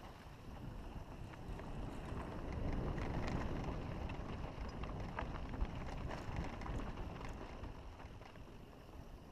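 Wind rumbling on the microphone, swelling a few seconds in and easing off toward the end, with scattered faint clicks.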